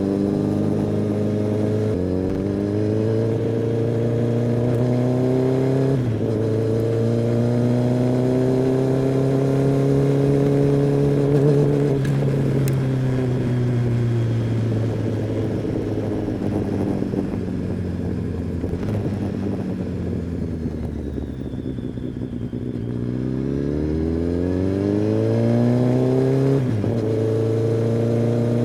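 Kawasaki ZX-10R inline-four engine and exhaust pulling up through the gears, with the revs rising and then dropping at upshifts about two and six seconds in. It then rolls off the throttle with the pitch falling for several seconds, and accelerates again with another upshift near the end.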